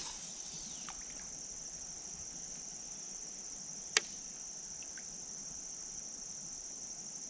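A steady, high-pitched chorus of insects buzzing without a break, with one sharp click about four seconds in.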